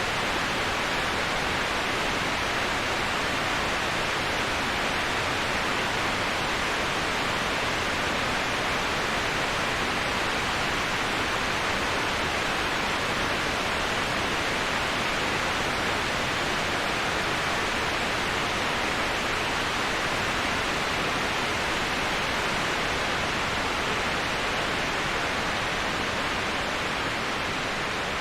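Waterfall white noise: a steady, even rush of falling water, strongest in the upper middle, easing off slightly near the end.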